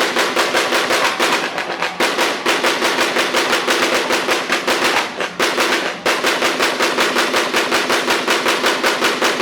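Car engine held on a two-step launch-control rev limiter, its exhaust crackling in a rapid, even string of pops over a steady engine drone. It breaks off briefly about two seconds in and again about five seconds in, then carries on.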